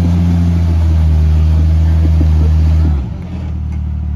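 Jeep engine held at steady, raised revs, then dropping back sharply about three seconds in.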